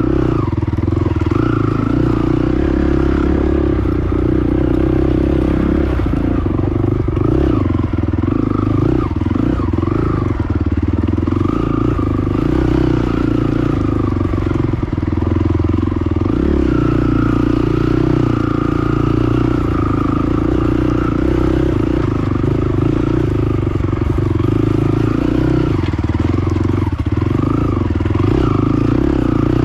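Honda TRX450 ATV's single-cylinder four-stroke engine running steadily under load as it rides a rough off-road trail. The throttle shifts up and down now and then, with some rattling from the ride.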